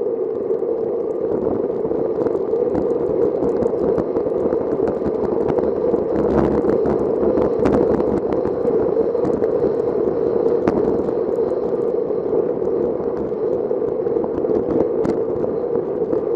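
Steady rush of wind and tyre noise on a moving bicycle's camera microphone, with scattered light crackles.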